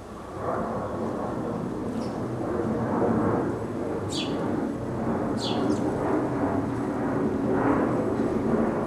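A loud, steady low rumble with a noisy hiss. Over it, a small bird gives short calls, each a quick falling note: one about four seconds in and two close together about a second later.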